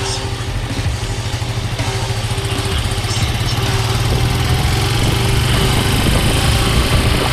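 Motorcycle engine running with a steady low drone, growing a little louder from about three seconds in.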